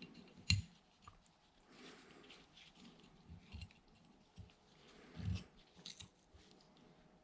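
Faint scattered clicks and light knocks of metal parts and hand tools being handled as a bearing is refitted on the engine, with a sharper knock about half a second in and a dull thud around five seconds in.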